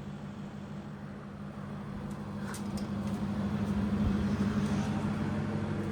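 Air conditioner running: a steady hum with the whoosh of its fan motor, growing louder about two seconds in.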